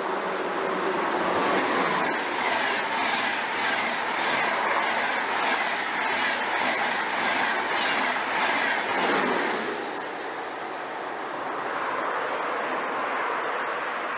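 A train passing along the track, its wheels clattering in a quick, regular beat over the rails. The noise eases off about two-thirds of the way through.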